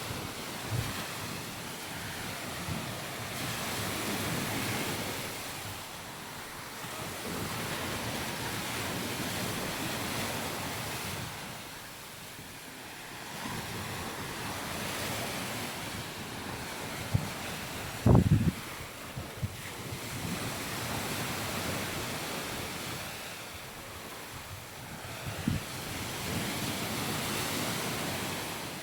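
Surf washing onto a sandy beach, swelling and fading every few seconds, with wind buffeting the microphone in low rumbles and one brief louder thump a little past the middle.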